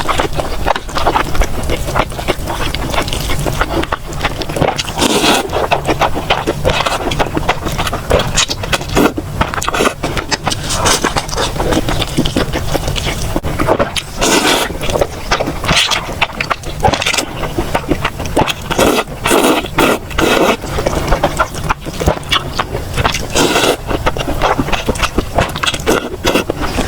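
Close-miked eating sounds: a person chewing food with a dense, irregular run of wet clicks and crunches several times a second.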